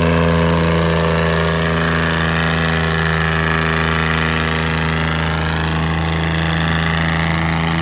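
Tractor's diesel engine running steadily at an even speed, a constant low drone.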